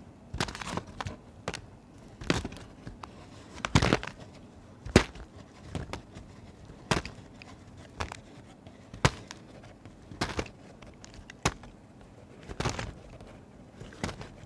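Knife cutting through dry, brittle bar soap: crisp crunching cracks about once a second, some coming in quick little clusters.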